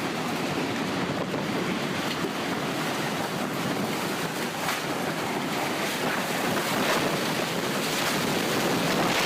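Tornado wind: a steady rushing noise that gets a little louder about seven seconds in.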